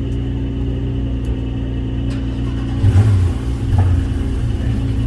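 A car engine idling steadily, with two short louder surges about three and four seconds in.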